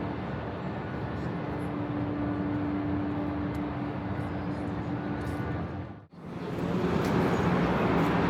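Night-time city street ambience: steady traffic noise with a constant hum underneath. About six seconds in it cuts off abruptly and a louder stretch of traffic noise takes over.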